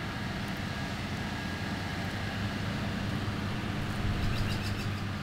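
Steady low engine drone, with a faint steady higher whine on top.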